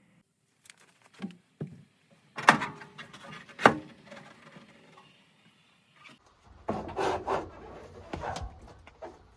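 Handling noises from parts being worked on: two sharp knocks a little over a second apart, then a stretch of scraping and rubbing near the end.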